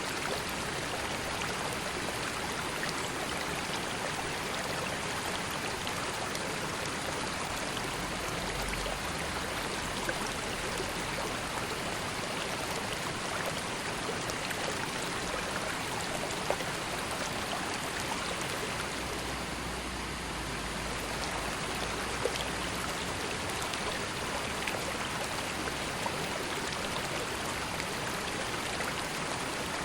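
River water flowing in a steady, even rush, with faint small splashes now and then.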